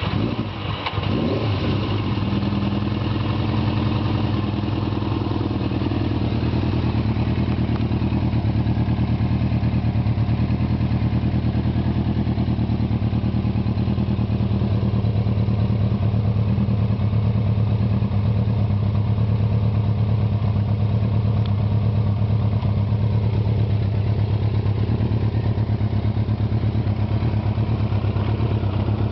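1994 Suzuki GSX600F's inline-four engine idling through aftermarket Superpole exhausts with the dB-killer baffles removed, just after a cold start. The pitch wavers for the first couple of seconds, then settles into a steady idle.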